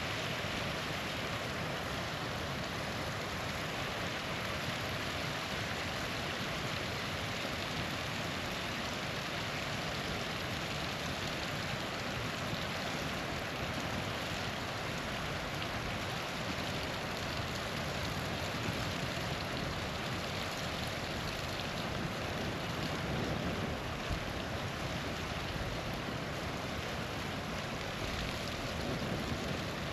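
Steady rushing and splashing of a small waterfall, with one small pop about two-thirds of the way through.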